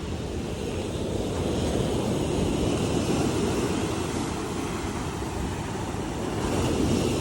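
Surf washing on the shore, with wind rumbling on the microphone: a steady low rumble with a hiss above it.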